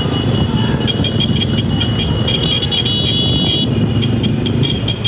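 Motorcycles running in a group on the road, with a high horn tone sounding on and off and a run of short repeated beeps.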